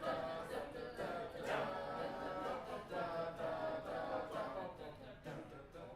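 A wind band's players singing their parts together instead of playing, with many voices holding notes that move through scale passages. The singing gets quieter near the end.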